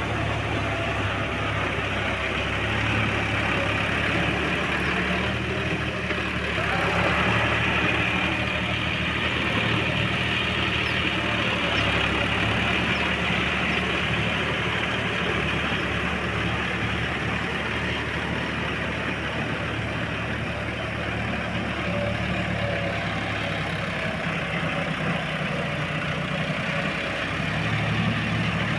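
John Deere 5210 tractor's three-cylinder diesel engine running steadily.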